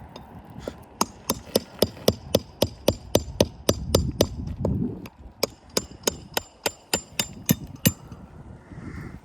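A hammer striking rapidly and evenly, about four blows a second for some seven seconds, each blow with a short metallic ring.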